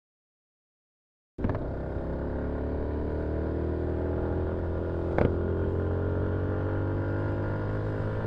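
Silence for about a second and a half, then a Yamaha MT-125's single-cylinder engine running as the motorcycle rides on, its pitch rising slowly. A sharp click about five seconds in.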